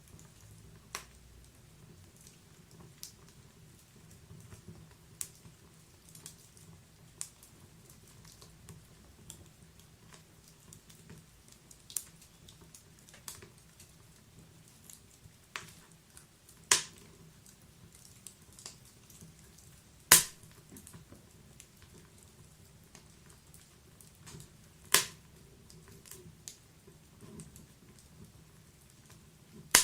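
Wood fire crackling in a fireplace: irregular sharp pops and snaps over a soft low hiss, with three louder pops in the second half.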